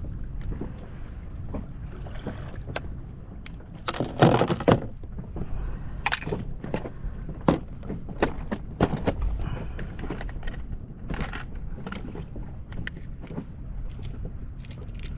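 Irregular knocks and clicks of fishing gear being handled in a small boat, with a louder clatter about four seconds in, over steady low wind and water noise.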